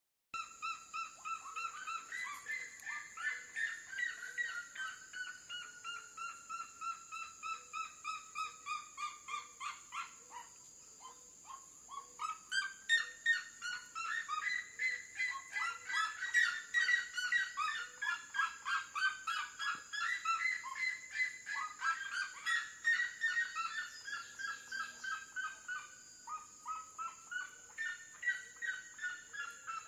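Red-legged seriema singing: long series of rapid, loud, repeated notes, about three a second, that climb and then slide down in pitch. The song comes in three bouts, with a pause of about two seconds a third of the way through and a brief break near the end.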